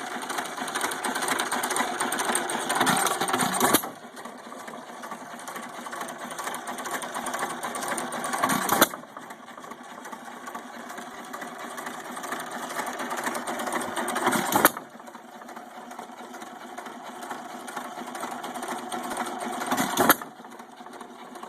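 1917 United 2½ hp hit-and-miss stationary engine running, its steady clatter swelling to a sharp loud bang about every five to six seconds, four times, and dropping off after each bang.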